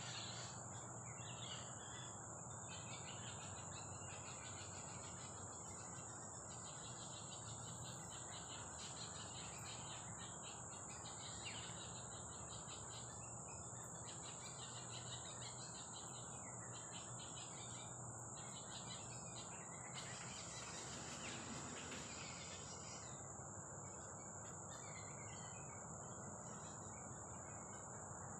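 Soft rain falling steadily, with birds chirping and calling on and off and a constant high insect drone.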